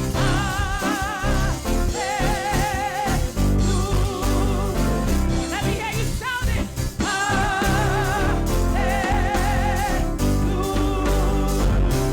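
Gospel praise-and-worship music: a singer holding long notes with a wavering vibrato over a band with a strong bass line and drums.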